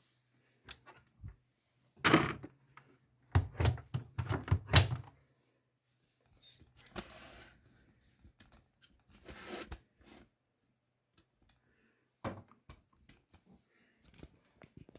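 Thunks and clicks from a Grundig washing machine being handled, its drawer and door opened and shut: a heavy thunk about two seconds in, a cluster of knocks soon after, then a few softer rustles and a click near the end.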